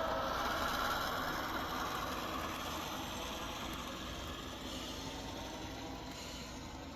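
Model train locomotive running on its track: a steady mechanical running sound of motor and wheels that slowly fades.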